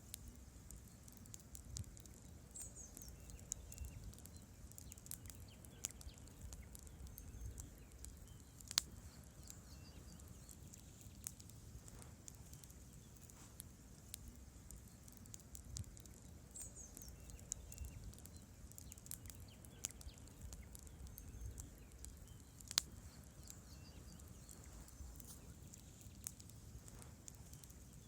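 Wood campfire burning: a low steady rumble of flames with irregular crackling from the logs, and two sharper pops about nine seconds in and near the end.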